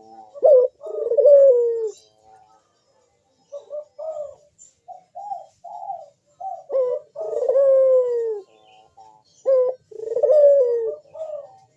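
Barbary dove (burung puter) cooing over and over in the vigorous, breeding-condition calling used as a lure. Long coos fall in pitch, with a run of short, clipped notes between them in the middle.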